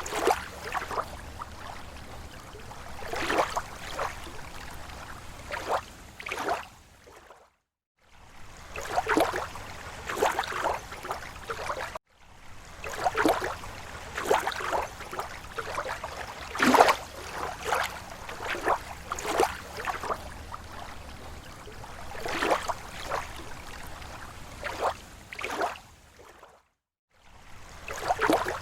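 Small waves lapping at a lake shore: irregular gentle splashes and gurgles over a low steady wash of water. The sound drops out to silence twice for about half a second, once around a quarter of the way in and again near the end.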